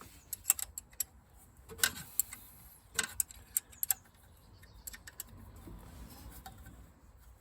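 Hand tool clicking on metal as a small bolt holding the exhaust pressure sensor pipe bracket is tightened: irregular sharp clicks, most of them in the first four seconds, fewer after.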